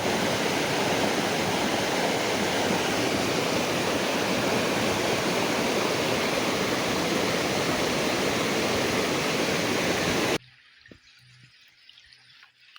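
Steady rushing water, an even full-range hiss that cuts off abruptly about ten seconds in. A few faint clicks follow in the near-quiet after it.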